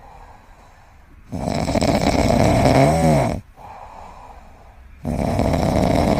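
An animal snoring loudly in long, rough drawn-out snores, two in all. The first ends in a brief wavering pitched whine, and quieter breaths fall between the snores.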